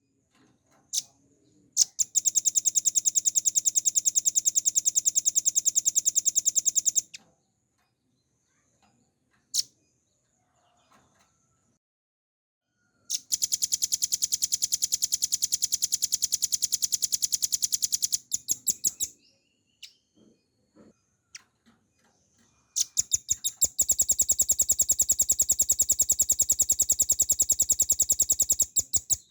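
Velvet-fronted nuthatch (rambatan paruh merah) singing long, very rapid high-pitched trills, three bouts of several seconds each, with a few single sharp chips in the pauses between.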